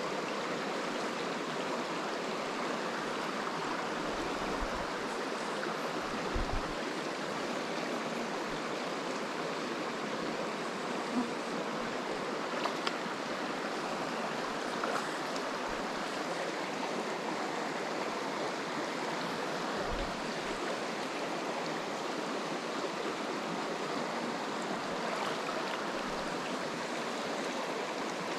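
Small mountain stream running: a steady wash of flowing water, with a few faint low bumps.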